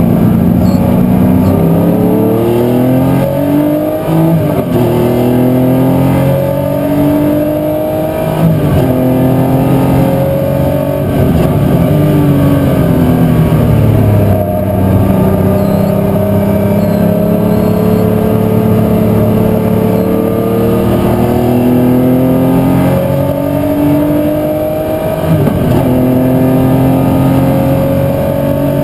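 A historic muscle car's V8 engine at racing speed, climbing in pitch under hard acceleration and dropping sharply at gear changes and lift-offs every few seconds.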